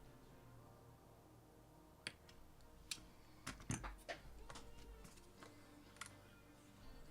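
Near silence broken by a few small, sharp clicks and taps, with a short cluster of them about three and a half seconds in.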